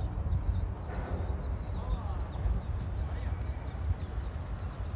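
Small birds chirping in quick, short, falling high notes, several a second, thinning out toward the end, over a steady low rumble.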